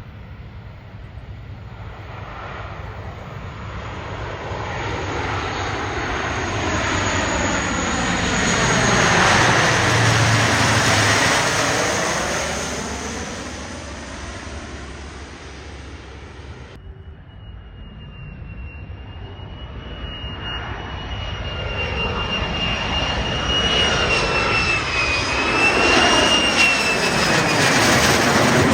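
F-35 Lightning II fighter jet passing overhead, its single jet engine swelling to a peak about ten seconds in and then fading. After an abrupt cut, a second jet approaches with a steady high-pitched whine over rising engine noise that grows loud near the end.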